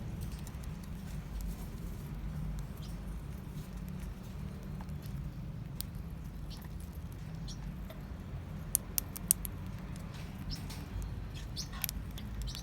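Forpus parrotlets making scattered sharp clicks and taps and a few faint high squeaks, over a steady low hum. A quick run of louder clicks comes about nine seconds in.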